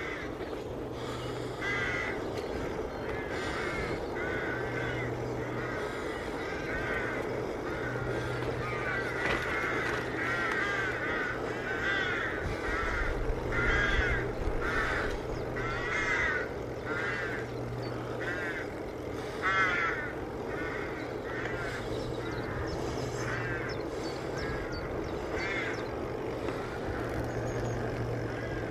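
Crows cawing repeatedly: many short, harsh caws, about one or two a second, some louder and some fainter, overlapping as from several birds.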